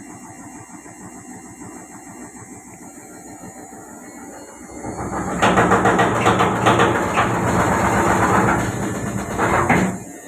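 Samsung Diamond Drum washing machine spinning with an unbalanced drum: a steady hum at first, then about halfway in the machine shakes and knocks loudly with rapid rattling, stopping abruptly near the end. The violent vibration comes from the drum's support arms, which were found bent to one side and cracked, throwing the drum off centre.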